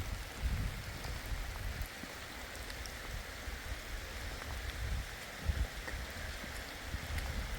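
Steady rain falling, with scattered small drop ticks, and wind gusting on the microphone in low rumbles.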